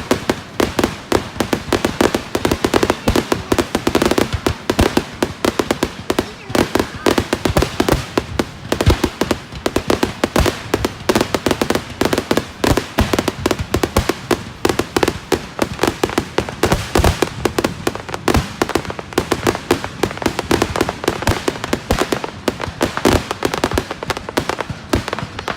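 Consumer fireworks going off in a dense, continuous crackle of rapid sharp pops and bangs.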